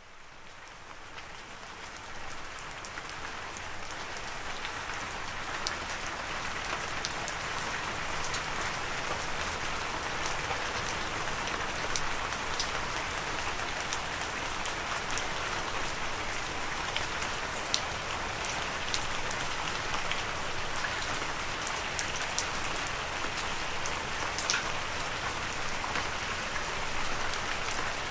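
Steady rain falling, an even hiss with many distinct drops ticking through it. It fades in from silence over the first few seconds, then holds level.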